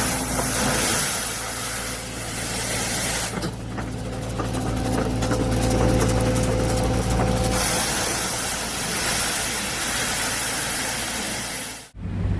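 Snow-clearing vehicle's engine running steadily under a constant rushing hiss of snow being pushed or thrown, the sound changing abruptly about three seconds in and again midway, and cutting off near the end.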